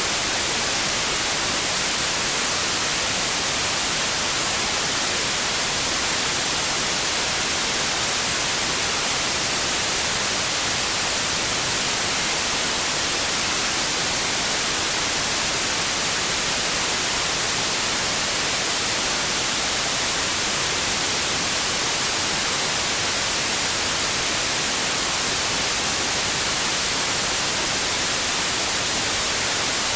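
Steady white noise: an even hiss, strongest in the treble, that does not change.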